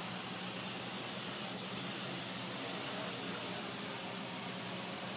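Parrot AR.Drone quadcopter in flight, its four electric rotors giving a steady high whine and hiss, with a brief dip about a second and a half in.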